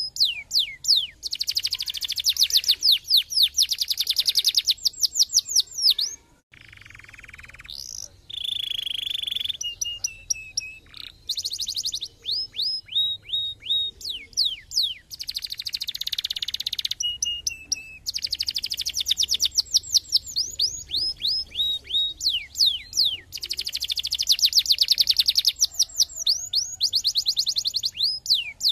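Domestic canary singing: fast trills of rapidly repeated downward-sweeping whistled notes, changing from one trill to the next, with a few held high notes. The song breaks off briefly about six seconds in, then goes on.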